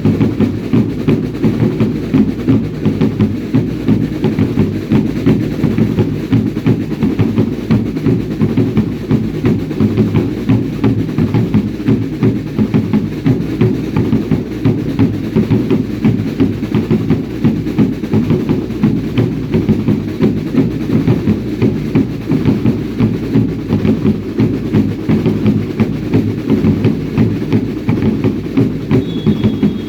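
Drums of a baile indio dance troupe beating a steady, driving rhythm, about two beats a second.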